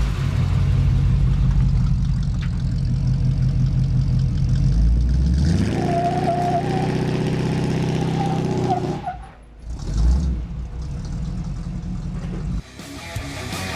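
Truck engine running, revved up about five seconds in and held there with a whine over the engine note, then let back down, blipped once, and settled to idle.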